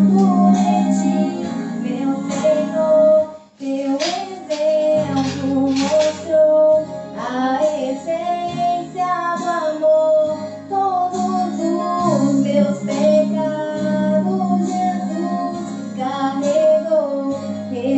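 Music: a female voice singing a gospel song over acoustic guitar accompaniment, with a brief break about three and a half seconds in.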